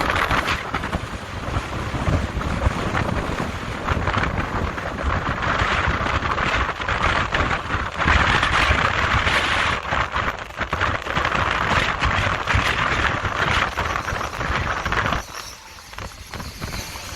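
Wind buffeting the microphone in gusts, with a low rumble underneath; it drops away sharply about fifteen seconds in.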